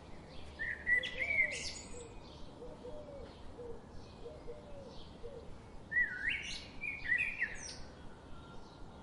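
Wild birds singing: two loud song phrases of quick rising and falling notes, each about a second and a half, one near the start and one about six seconds in. Softer chirps from other birds run throughout, with a string of faint low notes between the phrases.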